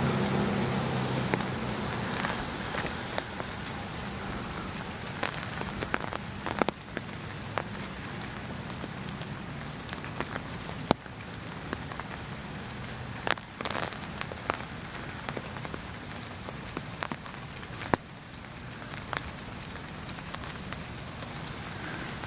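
Steady rain falling, an even hiss with many sharp drop ticks and a few louder single drops. The low hum of a vehicle dies away in the first couple of seconds.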